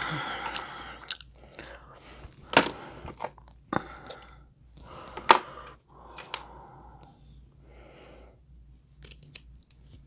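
Close-up chewing and crunching of seafood-boil food, with a dense burst of crunching at the start and several sharp crackles and clicks after it, the loudest about two and a half and five seconds in.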